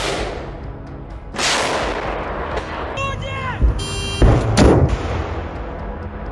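Anti-aircraft weapon firing: a blast at the start and a longer rushing blast about a second and a half in, then several sharp bangs about four seconds in, with men shouting between them.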